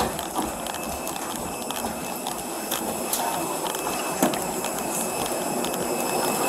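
Steady aircraft engine noise: a continuous drone with several high whining tones, broken by a few brief knocks.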